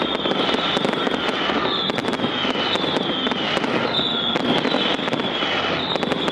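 Fireworks display: dense, rapid crackling and popping, with repeated short whistles falling in pitch over a steady roar.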